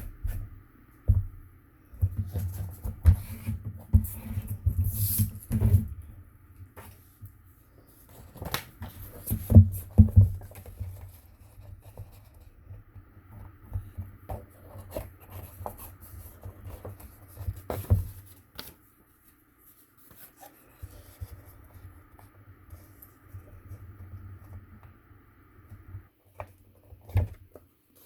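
Paper and cardstock being handled and pressed down on a table: irregular rustles, scrapes and light knocks, busiest in the first ten seconds and with a louder knock near the middle.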